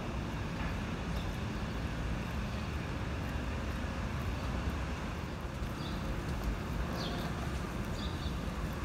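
Steady rain on a wet city street mixed with distant traffic: an even hiss over a low rumble. A few short high chirps sound in the second half.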